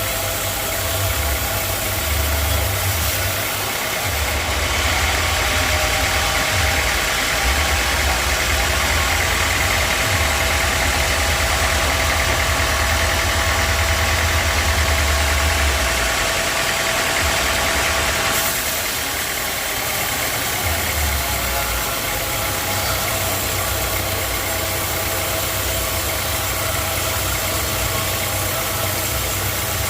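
Sawmill engine running steadily. From about five seconds in to about eighteen seconds a higher, brighter whine joins it, then drops away suddenly.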